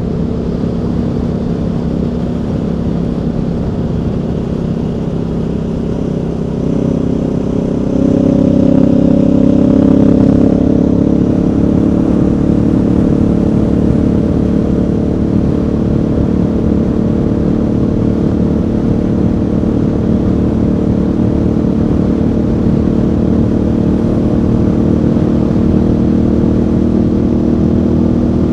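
Aprilia Tuono V4's V4 engine running under way, with wind and road noise. The throttle opens about seven to eight seconds in and the engine note climbs, then holds steady at a cruise.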